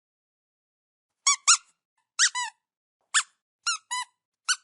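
Kitten giving a series of short, high-pitched squeaky mews, about eight of them in quick groups of one or two, starting just over a second in.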